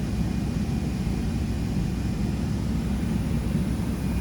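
Steady cabin noise of a Boeing 777 airliner in flight: the even, low rush of the jet engines and airflow, with a faint steady high tone above it.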